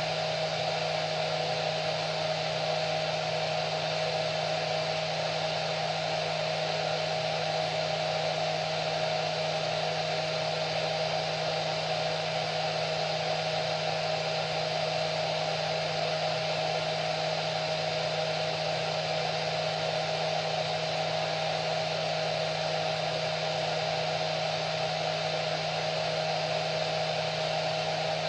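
Electric hair dryer running continuously, a steady blowing rush of air with a constant motor whine.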